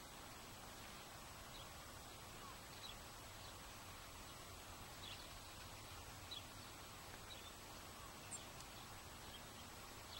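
Faint, scattered short bird chirps over a steady low hiss of outdoor background noise.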